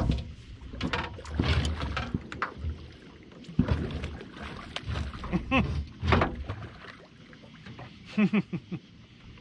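Irregular knocks and thumps on a small boat while a hooked channel catfish is worked in to the side.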